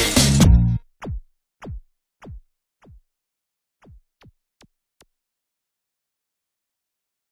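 Electronic music from an Amiga Protracker module, drum machine and synthesizer, stops abruptly less than a second in. It is followed by a string of short electronic zaps, each falling steeply in pitch, about two a second and fading away until about five seconds in.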